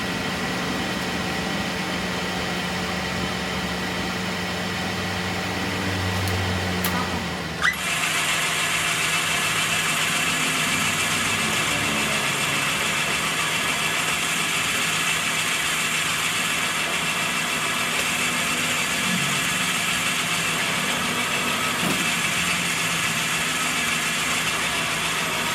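A machine running steadily. About eight seconds in there is a sharp click, and after it the machine runs louder, with more hiss.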